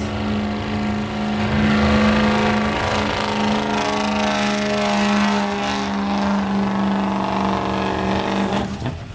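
2003 Ford 6.0L Power Stroke V8 turbodiesel running hard at a steady high pitch under full load as the truck drags the pulling sled, the engine note dropping away near the end as the driver lets off.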